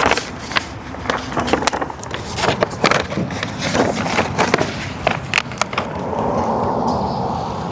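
Irregular crackling and clicking of vinyl wrap film being handled and pressed onto car trim, giving way about six seconds in to a steady hiss.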